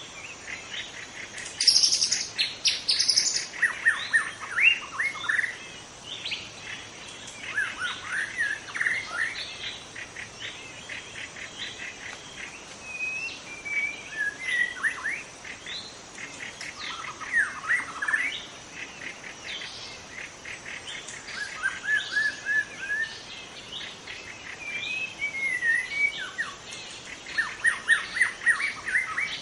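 Young white-rumped shama singing: bursts of rapid repeated notes and whistled glides, coming in phrases every few seconds, with the loudest, highest phrase about two seconds in.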